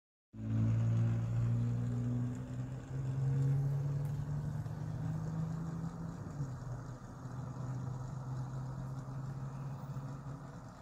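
A motor's steady low hum with a droning tone whose pitch shifts a little, starting just after a brief dropout.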